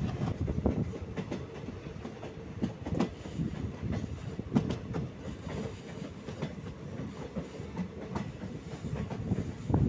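ICF passenger coach running along the track, heard from its open door: a steady low rumble of the bogies with irregular clacks and knocks of the wheels over the rail joints.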